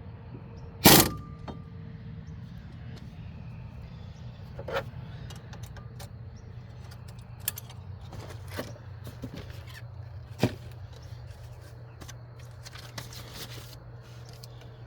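Metal tools and brake parts being handled during front brake work: a loud metallic clank about a second in that rings briefly, then scattered lighter clicks and clinks over a steady low hum.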